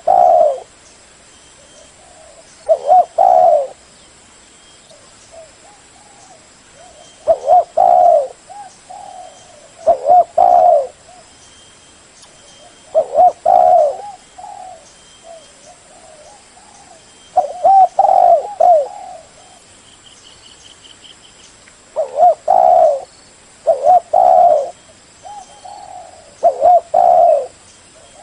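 Spotted dove cooing: short phrases of low hooting notes, repeated about every two to four seconds. Faint high chirps of other small birds sound in the background.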